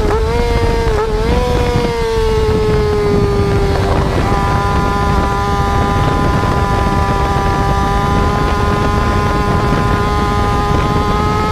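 Motorcycle engine held at high revs, a steady whine that wavers for the first couple of seconds, then sinks slightly and holds.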